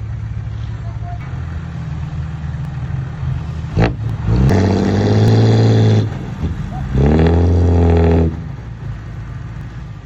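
Heavy construction machine's diesel engine running at low revs, with a sharp knock about four seconds in. The engine then revs up twice, each time for about a second and a half, rising in pitch and holding before dropping back.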